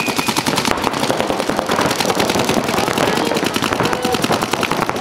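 Several paintball markers firing rapid, overlapping strings of shots, many per second. The end of a high, steady electronic start tone cuts off just after the start.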